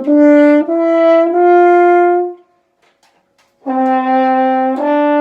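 French horn playing loud, sustained notes stepping up the first notes of the G major scale (written G, A, B, C). The run breaks off about two and a half seconds in, and after a short pause the same rising pattern starts again from the bottom.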